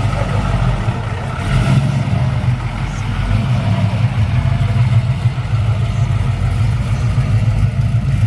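A car engine running at a low, steady idle, with a brief swell about a second and a half in.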